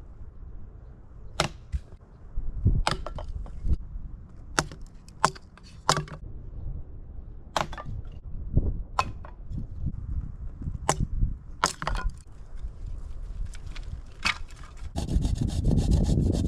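Sharp cracks and snaps of wood at irregular intervals, about a dozen in all, over a low rumble of wind. Near the end a steady rough rubbing or rasping sound begins.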